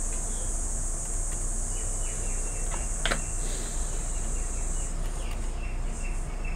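Steady high-pitched insect chirring that breaks into regular pulses over the last second or so, over a low steady hum, with a single sharp click about three seconds in.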